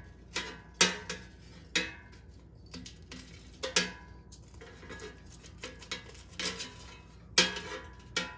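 A kitchen utensil clinking and clicking against the air fryer basket as pieces of breaded chicken are turned over one by one, in irregular sharp knocks, the loudest about a second in and near the end.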